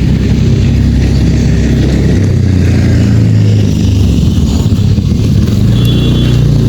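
An engine running steadily with a low hum, its pitch shifting about two seconds in. Faint short high chirps come near the end.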